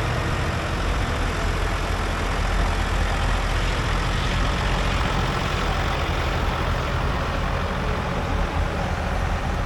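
Tractor engine running at a steady speed, a deep unchanging drone with a rushing noise over it.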